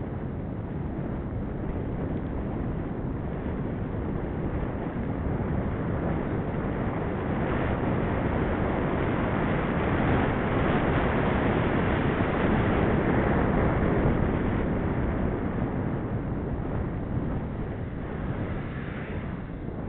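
Wind rushing over the microphone of a camera riding on a moving bicycle. It swells louder for several seconds in the middle, then eases off.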